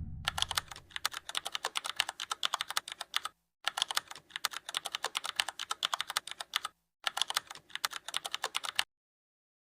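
Fast typing on a computer keyboard: three runs of rapid key clicks, about three, three and two seconds long, with short pauses between them.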